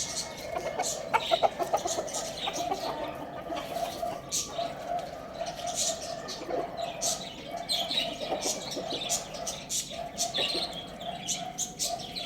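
A flock of pet birds chirping, many short high chirps in quick, irregular succession, over a steady hum.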